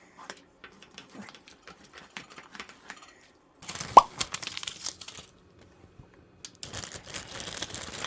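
Plastic delivery-food packaging crinkling and rustling in two bouts, after a few seconds of light clicks, with one sharp click and a short rising squeak about four seconds in.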